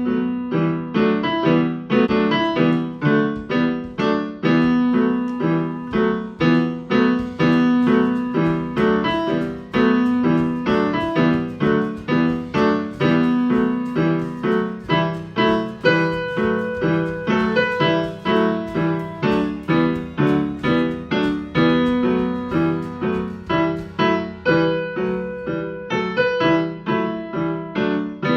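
Solo piano music: a steady run of struck notes, several a second, each fading before the next.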